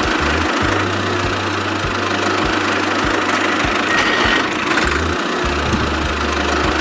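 A small engine-like motor running steadily, with a low hum and regular knocks about every half second.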